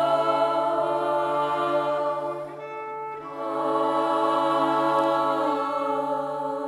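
A choir holding long wordless chords over a steady low note, with a short break about halfway and a shift to a new chord near the end.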